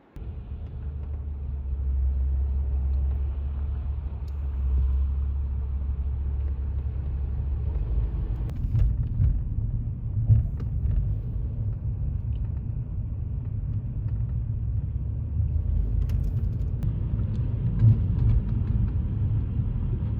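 Low, steady rumble of a car on the move, with a few light clicks and knocks scattered through it.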